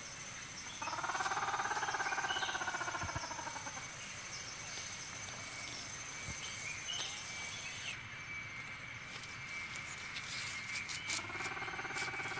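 Steady high-pitched cricket trilling that drops out about eight seconds in, then light scratchy clicking and patter. Two drawn-out wavering tones swell and fade near the start and again near the end.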